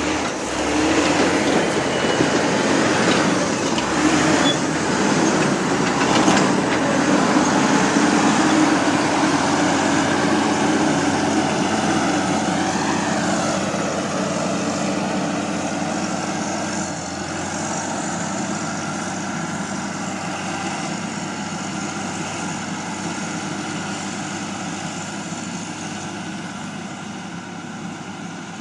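Heavy diesel road-building machinery running, a steady engine drone with a brief rise and fall in pitch about halfway, growing gradually quieter over the second half.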